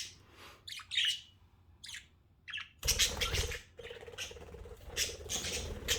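Pet budgerigars chirping and squawking in short calls. From about three seconds in, wind blows across the microphone with a low rumble under the birds.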